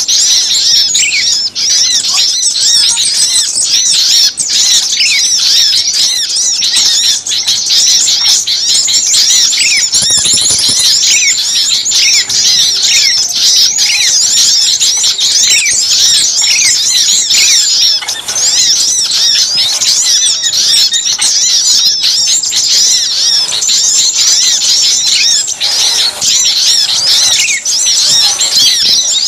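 A dense, agitated chorus of many small songbirds chirping and squeaking rapidly and without pause, with occasional lower falling notes among them: a bird-lure recording of noisy small birds used to draw other small birds in.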